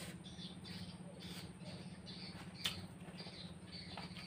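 Close-up chewing of a mouthful of ayam geprek (smashed fried chicken): soft, wet mouth sounds about two to three a second, with one sharp click about two-thirds of the way through, over a steady low hum.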